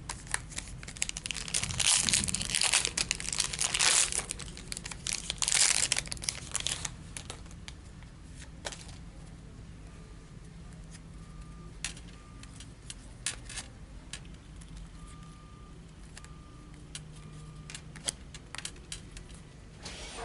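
Wrapper of a football trading card pack being torn open and crinkled loudly for several seconds. Then quieter, scattered clicks and rustles as the stack of cards is handled.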